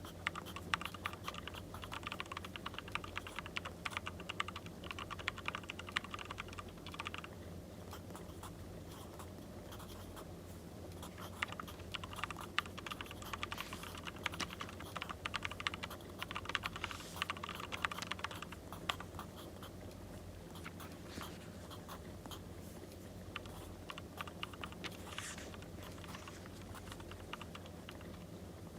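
Writing by hand on paper: dense, fine scratching in two long stretches, the first ending about seven seconds in and the second running from about eleven to nineteen seconds in, with only scattered light ticks between and after.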